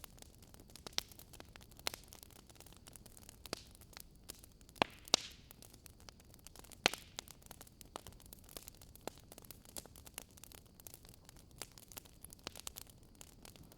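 Wood fire crackling in a fireplace: scattered sharp pops and snaps, a few louder than the rest, over a steady faint hiss.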